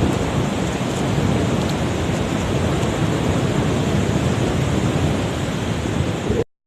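Seaside ambience: surf and wind buffeting the microphone, a steady rushing noise that cuts off suddenly near the end.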